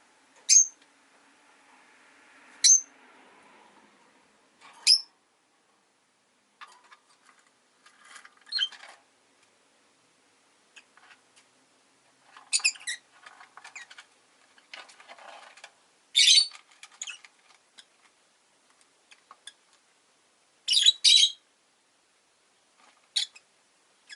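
Rosy-faced lovebirds chirping: three sharp, high single calls about two seconds apart, then scattered spells of quieter chattering, with a quick pair of loud calls near the end.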